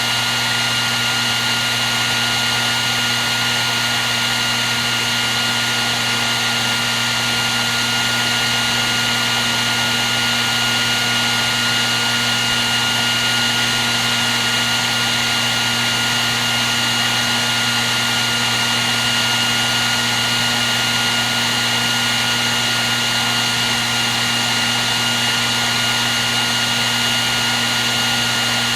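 Hair dryer running steadily without a break: an even rush of blown air with a steady high whine and a low motor hum, unchanging in level.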